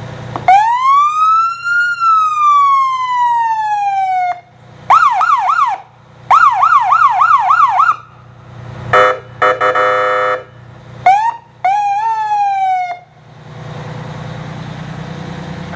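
1993 Pierce Arrow fire truck's siren run through its tones: a long wail rising then falling, two stretches of fast yelp, a steady horn-like tone, and a few short whoops. Near the end the siren stops and the truck's engine idles.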